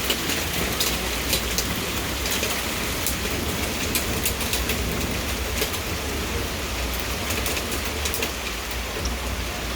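Marble-sized hail and rain coming down, a steady hiss of rain with scattered sharp clicks of hailstones striking surfaces at irregular moments.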